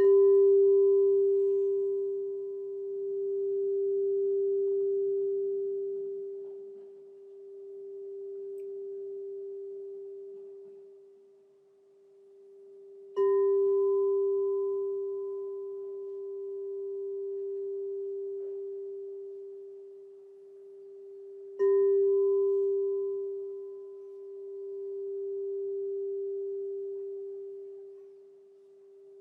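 A crystal singing bowl is struck three times: at the start, about 13 seconds in and about 21 seconds in. Each strike rings on as one pure, sustained tone with faint higher overtones, slowly pulsing in loudness as it fades.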